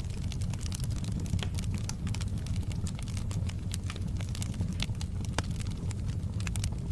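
Wood fire burning in a fireplace: a steady low rumble of the flames with frequent irregular sharp crackles and pops of the burning wood.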